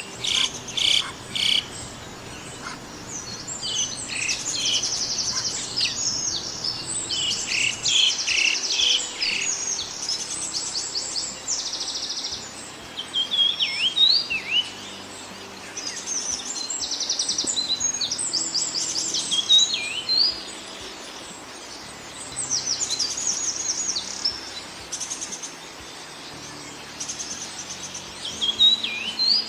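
Songbirds singing and chirping, several overlapping songs made of quick trills and rising whistled notes, in phrases of a second or two with short gaps between.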